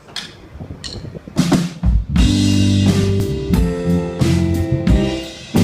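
A live band of drum kit, bass and piano warming up: a few light drum taps, then a drum fill about a second and a half in brings the band in with sustained bass notes and piano chords over drum hits.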